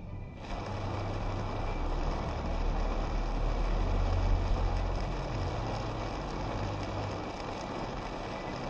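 Car driving in the rain: a steady hiss of rain and wet road noise over a low engine and road rumble, starting abruptly about half a second in.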